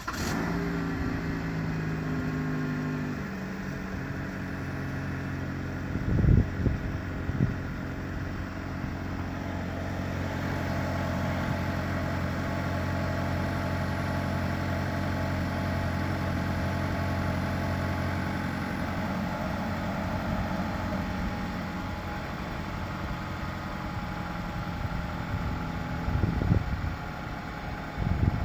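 2013 Chevrolet Malibu engine just after a start, its fast idle stepping down over the first few seconds and then idling steadily; the owner reports the engine making ticking noises. A few loud knocks about six seconds in and again near the end.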